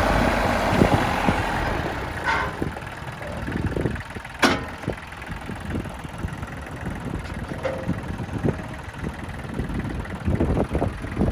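New Holland 1725 compact tractor's diesel engine running, louder for the first couple of seconds and then settling lower before picking up again near the end. A single sharp click sounds about four and a half seconds in, with a couple of brief squeaks.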